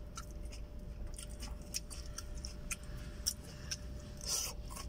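Someone eating a raw vegetable salad with a plastic fork: a run of small, crisp clicks from chewing crunchy vegetables and the fork working in a plastic bowl, with a short breath about four seconds in.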